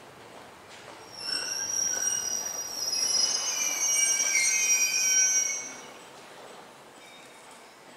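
IGR Iwate Galaxy Railway electric train pulling into a station platform as it slows, squealing in several high tones from about a second in until nearly six seconds, then only a quieter running rumble.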